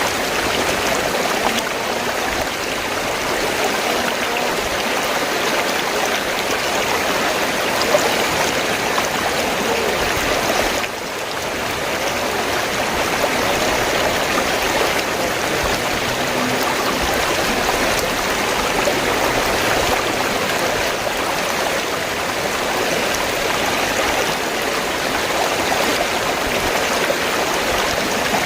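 River water flowing steadily, an even rush of water with a brief dip about eleven seconds in.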